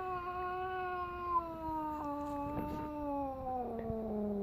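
A cat's long, unbroken yowl, low and drawn out, sliding slowly down in pitch. It is the upset caterwaul of a cat unhappy with another pet nearby.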